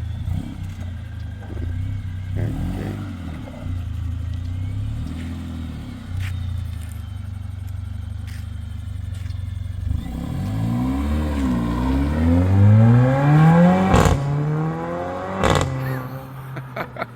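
Mercedes-AMG A45's turbocharged 2.0-litre four-cylinder on a stock exhaust, first running with light blips of the throttle, then pulling away hard with a steeply rising note. A sharp crack comes at a gear change near the end, followed by another crack and a few pops as it moves off.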